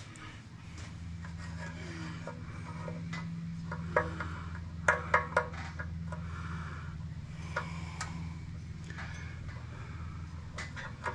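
Metal parts and hand tools clinking and knocking during work on a go-kart: a few sharp clicks, the loudest about four, five and eight seconds in, with some rubbing. A steady low hum runs underneath.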